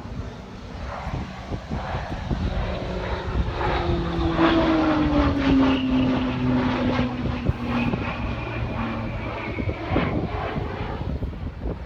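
An aircraft flying past during an air display. Its engine noise builds to a peak about four to six seconds in, and the engine's tone drops in pitch as it goes by.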